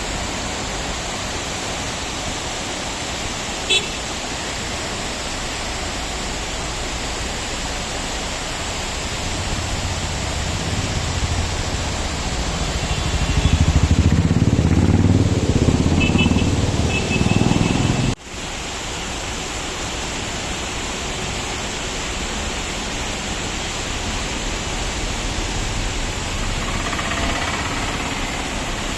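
Steady rushing of a waterfall beside a road. A motor vehicle passes partway through: a low engine sound swells from about ten seconds in, is loudest a few seconds later, then cuts off abruptly, after which the water noise carries on alone.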